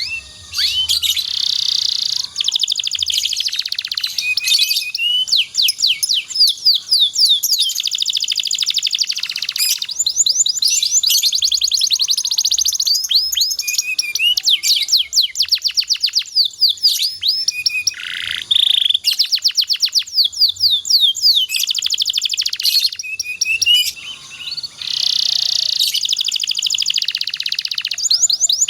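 Domestic canary singing a long, continuous song of rapid trills and rolls: fast runs of repeated sweeping notes and buzzy rattles, broken by a few short pauses.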